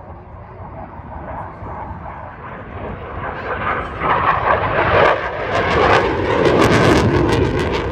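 Fighter jet flying past: its engine roar builds from about three seconds in and is loudest and rough near the end.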